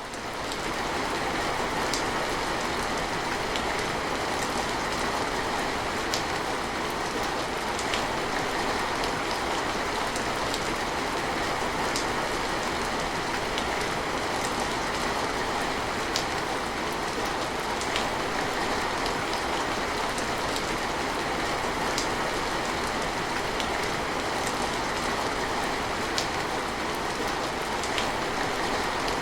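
Steady, even rain falling, with scattered sharper drop ticks every couple of seconds.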